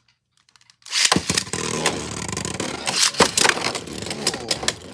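Two Beyblade X spinning tops are launched about a second in. They then spin and scrape around the plastic stadium with a steady whir, broken by repeated sharp clacks as they hit each other.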